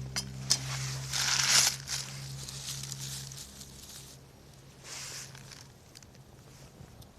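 Wood campfire crackling and popping, with a loud hissing, crackling flare about a second in and another near five seconds. A low steady hum fades out about halfway through.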